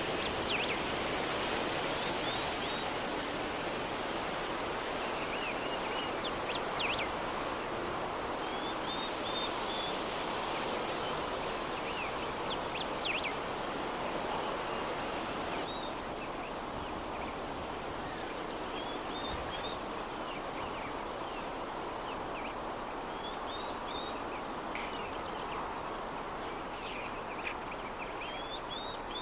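Steady soft breeze hissing through an open window. Over it, small birds give short high chirps in little groups every few seconds.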